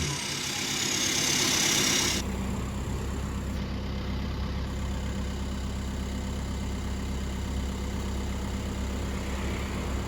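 SEAT Ibiza's turbocharged engine through a straight-through 2.5-inch stainless exhaust with no muffler. A high whine falls away for the first two seconds, then the engine idles with a steady, deep exhaust note.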